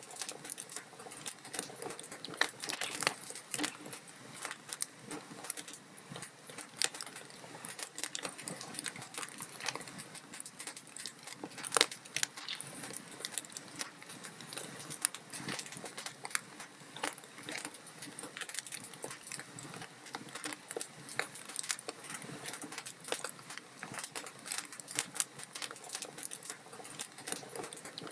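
Burning logs in a fireplace crackling steadily with irregular sharp pops, one louder pop about twelve seconds in.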